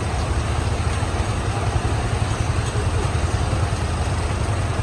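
Heavy truck diesel engine running at low revs, a steady low rumble.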